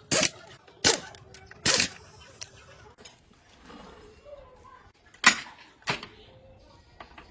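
A series of loud, sharp knocks: three in quick succession in the first two seconds, then two more a little over five seconds in.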